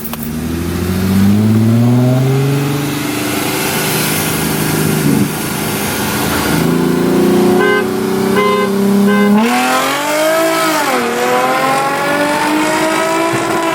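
Car engine pulling up through the revs for the first few seconds, then holding steady. A few short horn beeps sound about eight seconds in. The engine then dips and revs up hard, its pitch rising steadily in a rolling-start launch.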